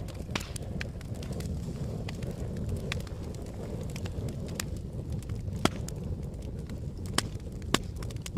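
Wood campfire burning: a steady low rumble of flames with scattered sharp crackles and pops, three louder pops in the second half.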